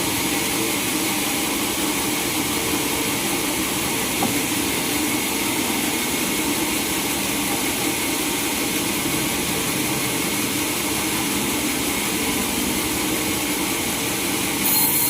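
Sawmill machinery running steadily with a continuous mechanical hum and hiss; a brighter, higher hiss joins near the end.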